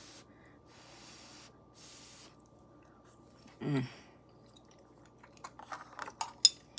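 Soft chewing of a mouthful of food, with a short closed-mouth hum partway through. Near the end come a run of sharp clicks and taps, like a utensil against the lunch box's food container.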